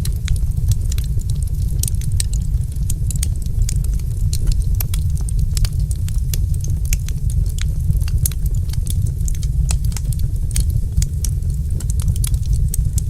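Wood fire burning in a fireplace: a steady low rumble of the flames with many sharp crackles and pops, several a second.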